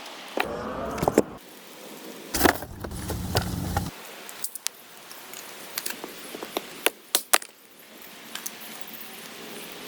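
Scattered short clicks and knocks of objects being handled, over a steady background hiss, with a brief creak about a second in and a heavy low rumble around the middle.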